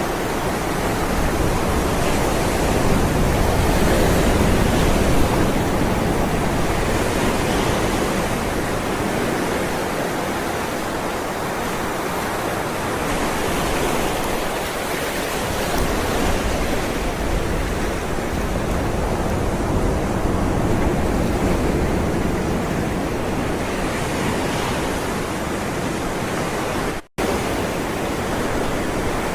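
Ocean waves rolling in as a continuous wash that swells and eases every several seconds. It cuts out for a split second near the end.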